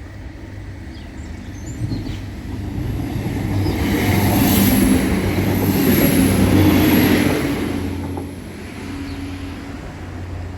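Diesel multiple unit train passing over the level crossing: its engine note and wheel-on-rail rumble build up, are loudest about four to seven seconds in, then drop away as it recedes, with a thin high whine along with it.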